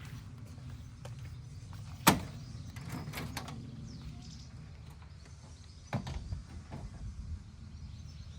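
A car door shutting with a solid clunk about two seconds in, followed by a few lighter clicks and another knock near six seconds, over a steady low rumble.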